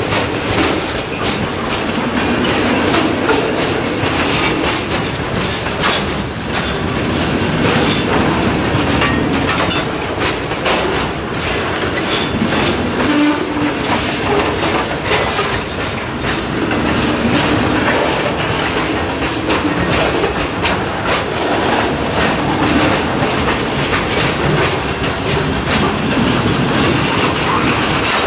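Freight train of hopper cars rolling past close by: a steady rumble of steel wheels on rail with a run of quick clicks and clanks as the wheels cross rail joints.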